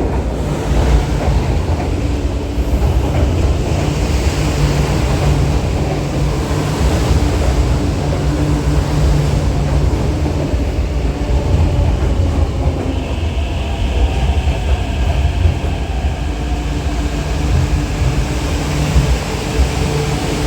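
MTR metro train running: a steady, loud low rumble with a humming motor tone, and a higher whine that rises in for a few seconds around the middle.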